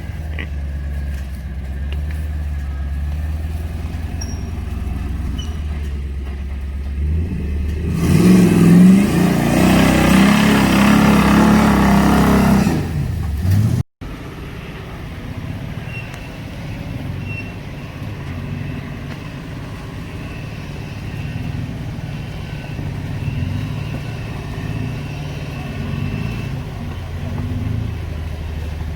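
Off-road vehicle's engine running on the trail at low speed, then revving hard for about five seconds a third of the way in. The sound cuts off abruptly just after, then the engine is heard running steadily again.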